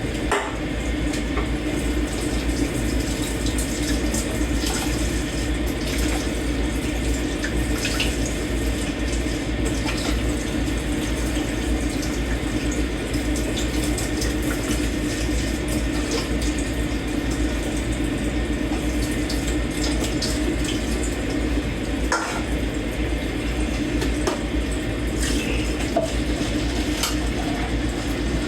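Kitchen tap running steadily into a sink while dishes are washed by hand, with a few light clinks of dishes and cutlery now and then.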